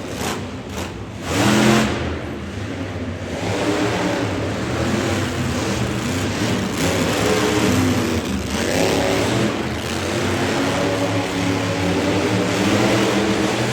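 Monster truck engines revving and running hard under racing, the pitch rising and falling as the throttle opens and lifts, with a louder surge about a second and a half in.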